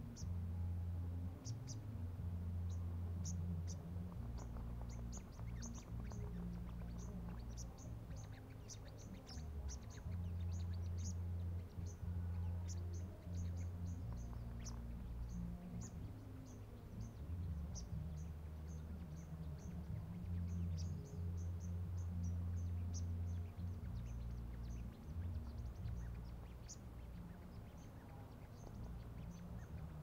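Small birds chirping around a bird-trapping decoy cage: many short, high-pitched chirps in irregular runs. A loud low rumble rises and falls underneath.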